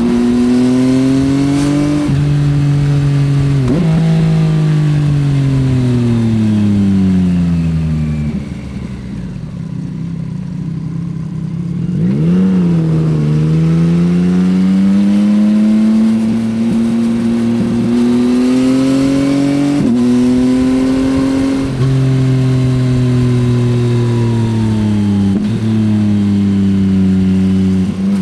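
Yamaha XSR900's three-cylinder engine through an Akrapovič exhaust, accelerating and slowing through the gears. The pitch climbs and drops at several gear changes, sinks to low revs off the throttle about a third of the way in, then picks up again after a quick rev around the middle.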